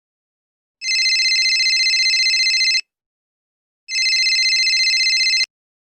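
Telephone ring sound effect: two rings with a fast trilling flutter, the first about two seconds long, the second shorter and cut off abruptly.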